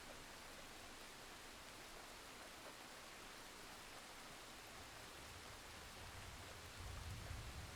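Faint, steady rain hiss, an even white-noise-like wash. A brief low rumble comes in near the end.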